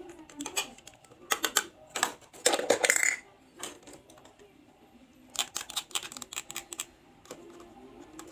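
Runs of quick, sharp clicks and taps of small hard toy pieces being handled, with a short pitched squeak about three seconds in.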